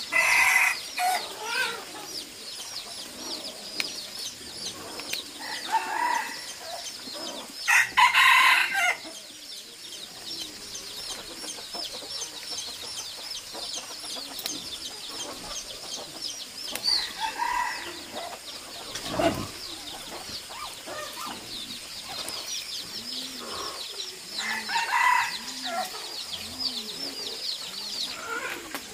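Chickens, with roosters crowing five times in calls about a second long, the loudest about eight seconds in, over a continuous high chirping.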